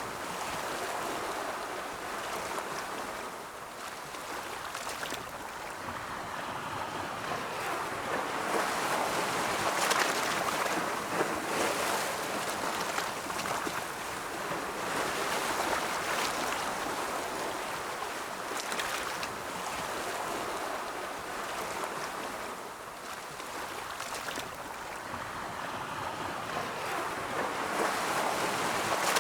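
Ocean waves rolling in and washing on a shore, the surf swelling and easing over several seconds, with a light crackle of water running back.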